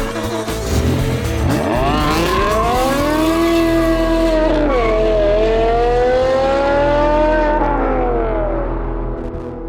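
Straight-piped Toyota GR Yaris turbocharged three-cylinder engine accelerating hard. Its pitch rises, drops briefly at a gear change about halfway, rises again, then falls away and fades near the end as the car drives off. Music plays underneath.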